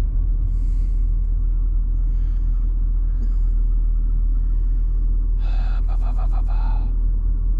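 Steady low rumble of a hauling truck running, even in level throughout. A short burst of noise cuts in about five and a half seconds in and lasts about a second.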